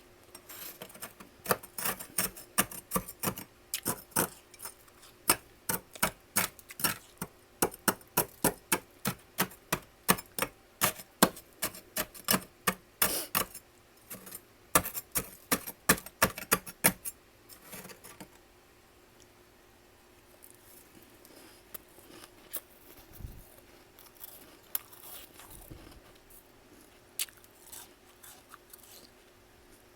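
Freezer frost being chewed close to the microphone: a fast run of sharp, crisp crunches, about two a second, that gives way after about 17 seconds to softer, scattered chewing.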